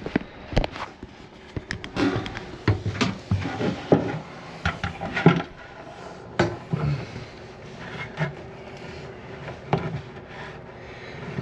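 Scattered clicks, knocks and rubbing of hands working loose a toilet's supply line and plastic fill valve.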